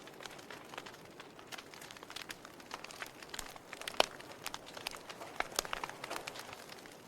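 Wood fire burning in a fireplace: burning logs crackling and popping at random over a soft hiss, with one sharper pop about four seconds in.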